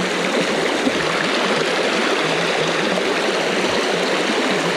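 Rain-swollen creek rushing over rocks: a steady, loud rush of water.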